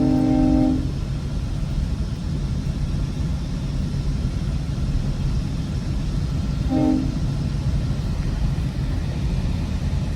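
Train horn sounding a chord: a long blast ending about a second in, then one short blast about seven seconds in. Underneath, the steady rumble of the passenger train running on the rails.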